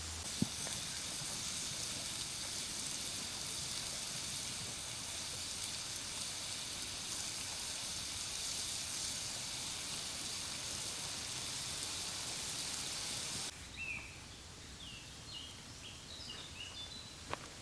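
Steaks sizzling over a campfire, a steady hiss that stops abruptly near the end. Birds then chirp several times.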